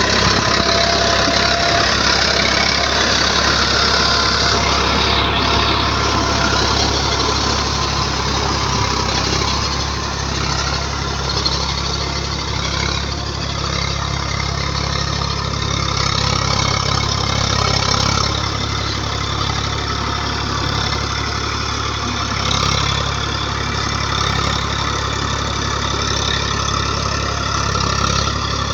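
Tractor diesel engine running steadily, with a continuous mechanical clatter and only small changes in level.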